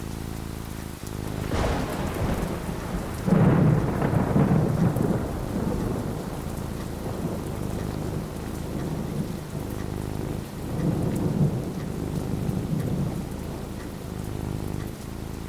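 Thunderstorm with steady rain: a sharp thunder crack near the start, then a loud rolling rumble of thunder lasting a couple of seconds, and a second, softer rumble later on.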